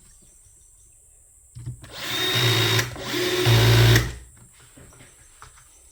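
Power drill running in two short bursts of about a second each, a couple of seconds in, driving screws back into the espresso machine's casing.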